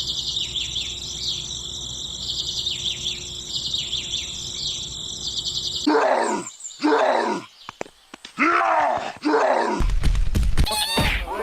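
Birds chirping steadily for about six seconds, then a series of loud, drawn-out animal-like calls whose pitch slides and falls, with short breaks between them.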